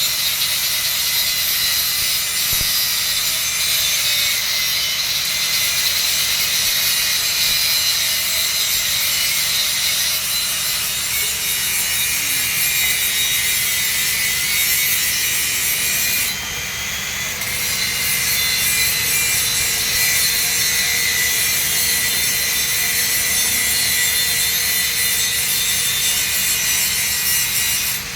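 Welding arc on steel pipe, crackling and hissing steadily, with a brief drop about sixteen seconds in and again at the end.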